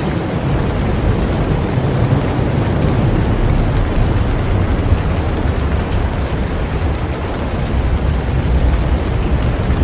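Heavy rain falling on a boat: a steady, dense hiss with a deep low rumble underneath.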